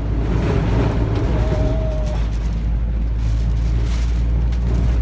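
Typhoon wind buffeting a car, heard from inside as a heavy, steady low rumble with a rushing hiss over it. A short whistle-like tone rises out of it for under a second, about a second and a half in.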